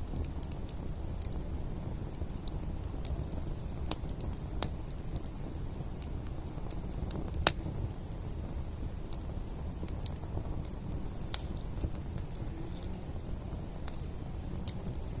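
Campfire burning: a steady low rumble with irregular sharp crackles and pops from the wood.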